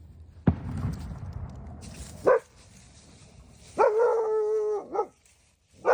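German shepherd puppy barking: a short bark, then one long drawn-out bark held for about a second, then another short bark near the end. Before the barks, about half a second in, comes a sudden thump followed by rustling.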